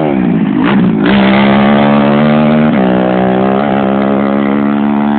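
An off-road race vehicle's engine running hard at high revs. Its pitch sweeps down near the start, then holds steady and high, with a brief drop about halfway through.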